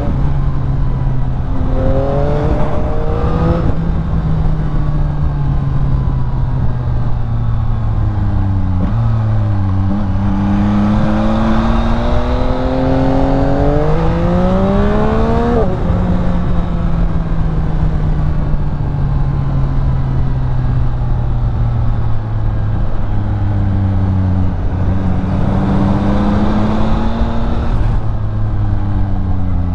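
Yamaha XSR900's three-cylinder engine under way. The revs climb several times, each climb cut off by a sudden drop as it shifts up. In the middle there is a long stretch of steady cruising, with the pitch slowly sinking. Near the end the revs climb once more and then drop sharply.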